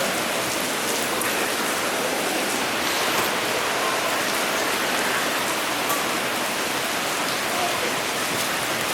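Steady rain falling, an even, fairly loud hiss of rain with scattered faint drop ticks.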